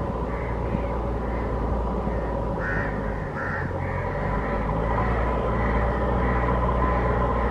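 Low, steady rumble of an approaching electric locomotive-hauled express train, growing slowly louder as it nears. A crow caws twice about three seconds in, over fainter repeated bird calls.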